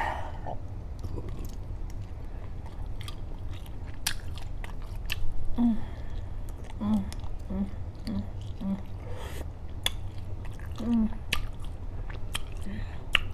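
Close-miked chewing and biting of jumbo shrimp, with irregular sharp mouth clicks scattered throughout and a few short low thuds in the middle.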